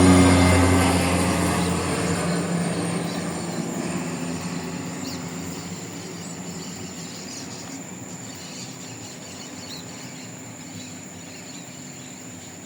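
The single turboprop engine and propeller of a Cessna 208 Grand Caravan fading into the distance as the plane departs after takeoff. Its low propeller hum dies away over the first few seconds. Steady insect chirring remains.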